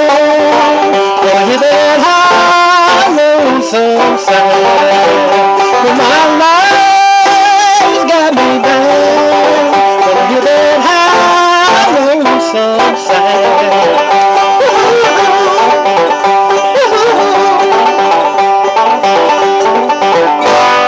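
Bluegrass-style instrumental music led by banjo, with melodic lines that slide up and down in pitch over steady plucked-string accompaniment.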